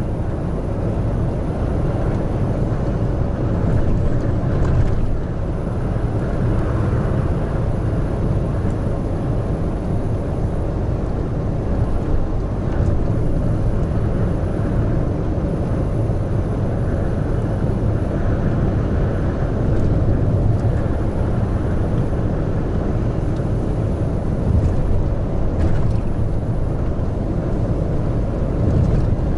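Large truck cruising at expressway speed: a steady low drone of its diesel engine mixed with tyre and road noise.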